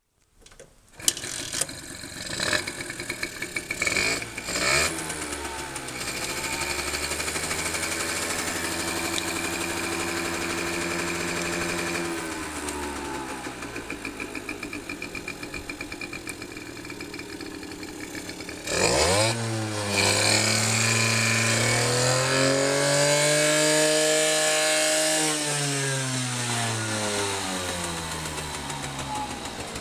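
Small motorcycle engine of an RC50 starting about a second in and being revved: a few quick blips, held at a raised speed, dropping back to idle, then blipped sharply again, raised and brought slowly back down to idle near the end.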